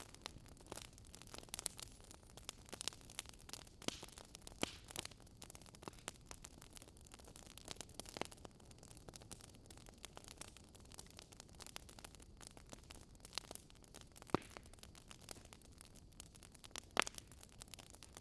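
Campfire crackling: irregular sharp pops and snaps of burning wood over a faint steady hiss, with a few louder pops.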